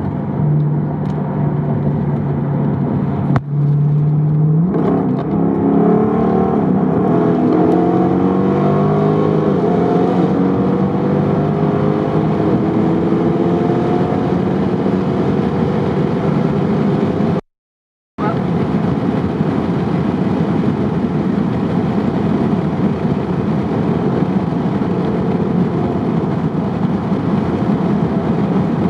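Jeep Grand Cherokee SRT's V8 running through a Corsa Xtreme cat-back exhaust. It holds a steady note, then accelerates about five seconds in with the pitch climbing, then settles into a steady cruise. The sound cuts out for half a second past the middle.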